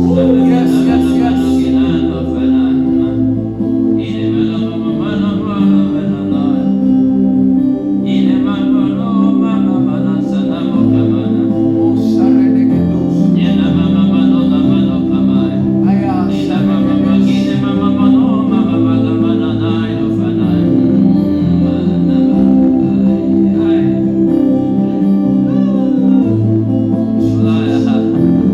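Slow worship music: sustained chords over a bass line that shifts every few seconds, with a voice singing in long wavering phrases that come and go.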